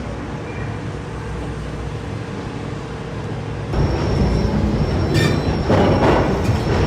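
Heavy machinery running with a steady low rumble that gets louder about four seconds in, joined by a thin high whine and a few short metallic squeals.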